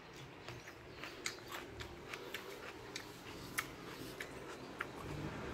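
Faint, irregular crunching clicks of someone chewing a piece of raw sweet pepper.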